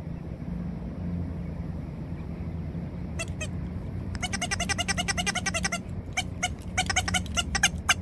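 Mallard ducklings peeping: short, high calls begin about three seconds in, come in a rapid run for a couple of seconds, then as scattered single peeps near the end, over a steady low background rumble.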